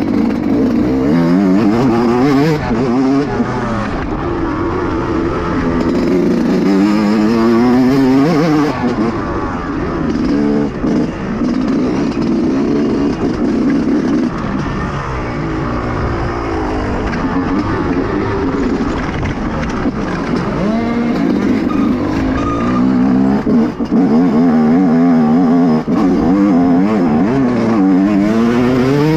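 Motocross dirt bike engine revving hard, its pitch climbing and dropping again and again as it accelerates and shifts through the gears.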